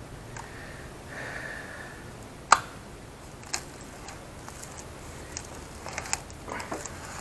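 Sharp knocks and clicks of hand tools working at a pipe form stuck in cast refractory: one loud knock about two and a half seconds in, a second a second later, then several lighter clicks.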